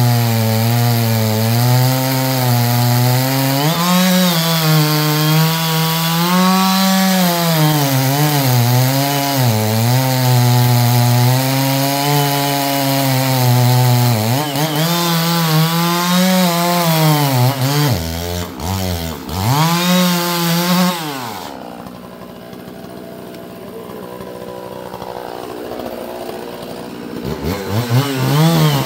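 Two-stroke chainsaw cutting black walnut, its engine pitch sagging and recovering as the chain loads in the hardwood. Around 21 seconds in the saw drops away to a low level, then revs up again near the end.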